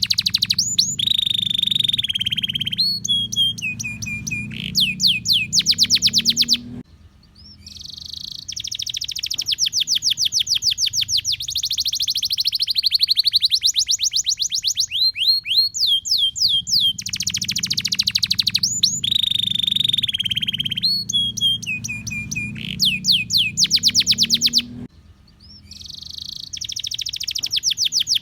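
Domestic canary singing a long, continuous song of fast trills and rolls, rapid runs of repeated notes, with a brief break about 7 seconds in and again near the end. The same stretch of song repeats about 18 seconds later, as a loop.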